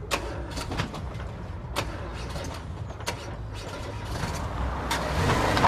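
Renault Mégane's engine running at idle, with several sharp clicks and clunks and a louder harsh rise near the end, as a driver unused to the manual gearbox struggles to find a gear.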